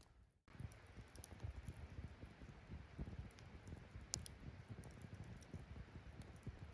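Wood campfire crackling: a dense run of small pops with now and then a sharper snap, the strongest about four seconds in. It cuts in after a brief silent gap at the very start.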